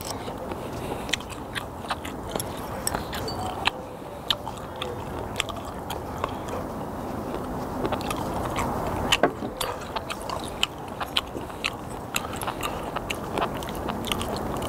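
Close-miked chewing of sliced raw skate, with many short sharp mouth clicks and crunches. About eight seconds in, soju is poured from the bottle into a shot glass.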